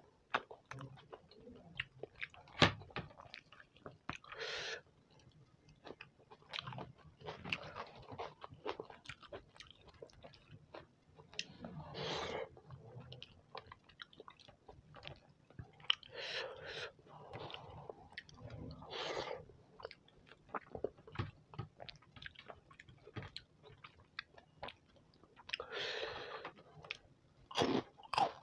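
Close-miked chewing and mouth sounds of a man eating khichdi and potato curry by hand. Wet, sticky smacks and clicks come in bursts every few seconds, with an occasional crunch.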